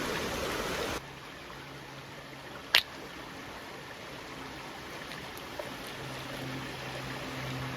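Creek water running steadily, with one sharp stone-on-stone crack about three seconds in: a hammerstone striking a quartzite rock to test it or knock off a flake.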